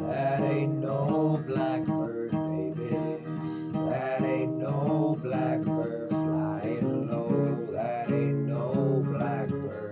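Music: acoustic guitar playing an instrumental passage with no singing, strummed and picked chords.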